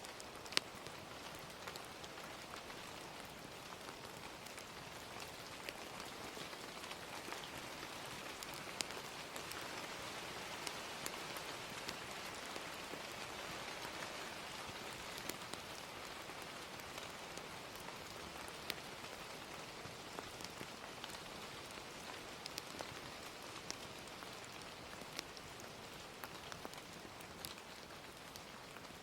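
Gentle steady rain with a fire crackling: an even hiss of rain, a little louder in the middle, with scattered sharp pops and clicks throughout.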